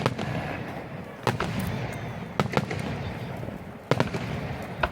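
Aerial fireworks shells bursting. There are sharp reports roughly every second, some of them in quick pairs, over a continuous rumble of echoing bangs.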